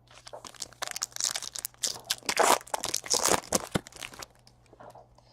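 Crinkling and tearing of a foil trading-card pack wrapper being ripped open and crumpled: an irregular run of crackly rustles that dies away about four seconds in.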